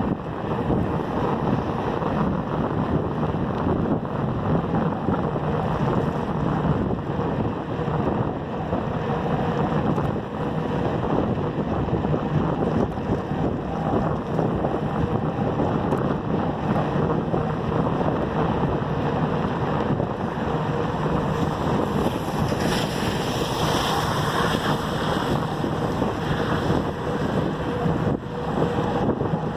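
Wind rushing over the microphone of a camera riding on a moving bicycle: a steady, dense rumble, with a brief rise in hiss about three-quarters of the way through.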